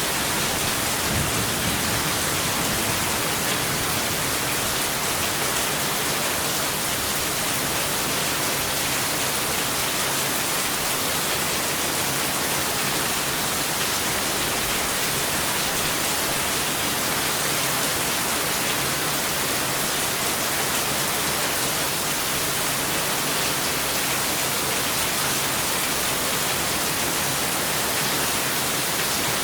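Steady heavy rain, an even hiss at constant level with no thunder.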